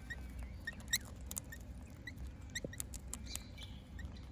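Small birds giving short, high, squeaky chirps, about two a second, mixed with a few sharp ticks and clicks.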